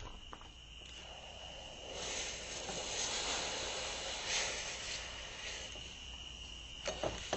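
Steady hiss of a blacksmith's forge with a faint high steady whine, swelling louder for a few seconds in the middle, then a few light clinks of metal near the end.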